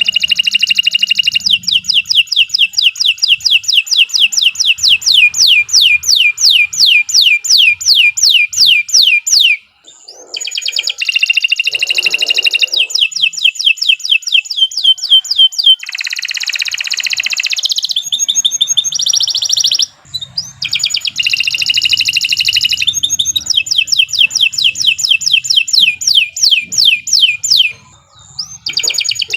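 Domestic canary singing a long, loud song of fast repeated trills and chirps, with short pauses about ten and twenty seconds in and near the end.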